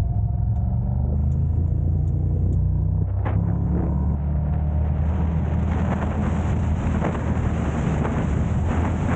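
Car on the move: a steady low engine and road drone, with one short click about three seconds in and a rushing wind and road noise that builds from about halfway.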